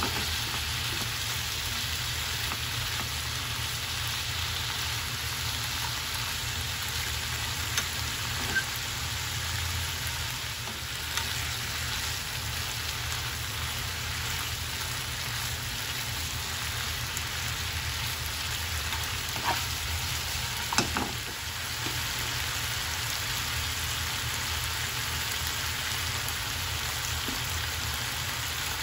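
Sliced pork and shiitake mushrooms sizzling in a frying pan as they are stirred with wooden chopsticks, a steady hiss with a few light clicks of the chopsticks against the pan now and then.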